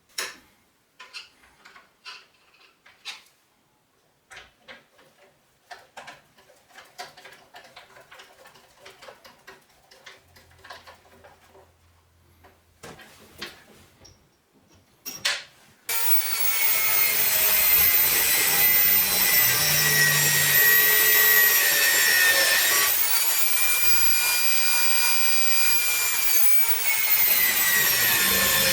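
Scattered clicks and knocks of parts being handled. Then, about halfway through, a 230 mm (9-inch) angle grinder on its stand starts suddenly and runs loud and steady, cutting metal with a high whine whose pitch shifts a few times.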